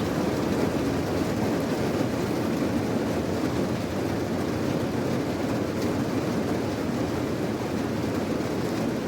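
Steady rain, a continuous even rush of noise with most of its weight low and no breaks or changes in level.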